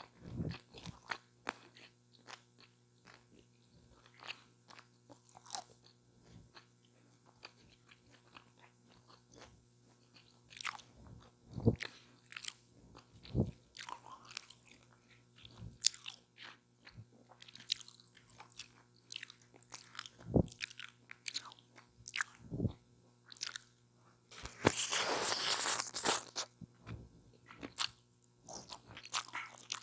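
Close-miked biting, crunching and chewing of a chicken taco, a run of short wet crackles and clicks. A louder, denser stretch of crunching lasts about two seconds toward the end.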